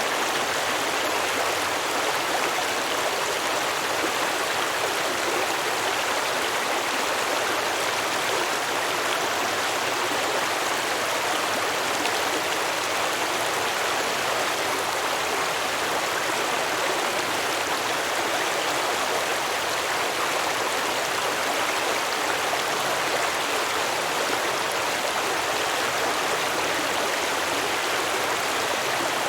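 Stream water flowing and babbling over rocks, a steady, even rush without breaks.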